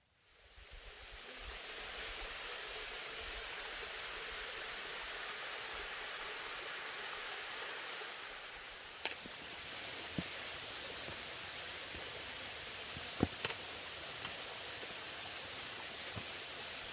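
Mountain stream rushing over rocks, a steady hiss of running water that fades in over the first two seconds. A few short clicks sound over it around the middle.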